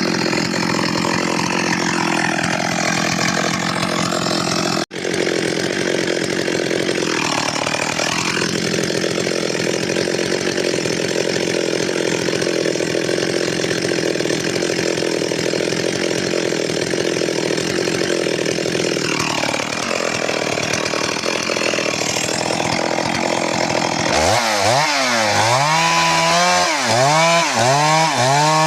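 Stihl MS 382 two-stroke chainsaw running at high speed, cutting wood, its engine pitch dipping briefly twice under load. The sound drops out for an instant about five seconds in. Near the end the engine speed rises and falls about once a second.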